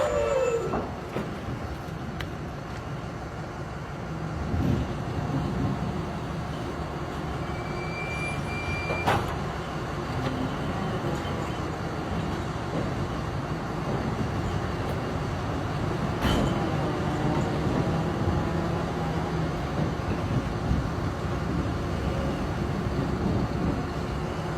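Radio-controlled model construction machines working, a steady low mechanical rumble, with two sharp clicks about nine and sixteen seconds in.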